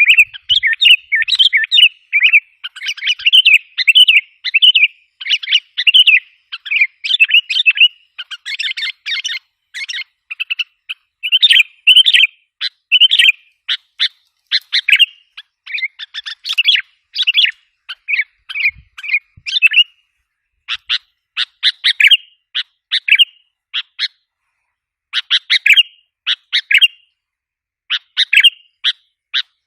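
Sooty-headed bulbul (kutilang) lure call: quick, bubbly chirped phrases run together for the first several seconds, then break into short separate chirps with brief pauses between them.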